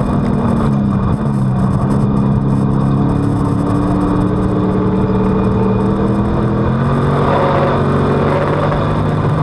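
On-board sound of a WISSOTA Street Stock race car's V8 engine running hard under racing load, over a steady rush of wind and road noise. The engine pitch drops about seven seconds in and climbs again near the end, as the throttle comes off and back on.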